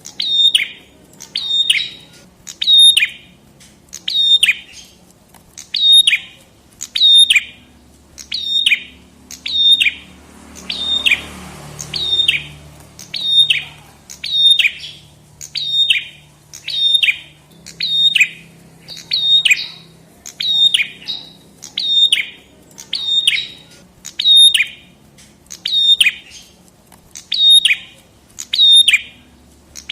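Prenjak kepala merah (a small tailorbird-type songbird) calling over and over, a short sharp note that drops in pitch, repeated evenly a little more than once a second. A brief hiss of noise rises under the calls about eleven seconds in.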